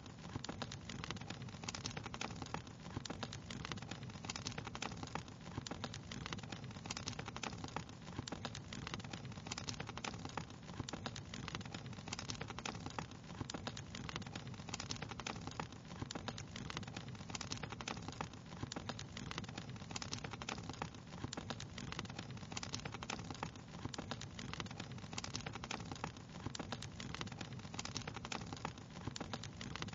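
Fireplace fire crackling steadily: a dense run of small pops and snaps over a low, even rumble.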